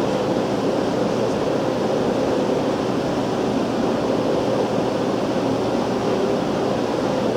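Steady hum and rush of air from a running fan, unchanging throughout.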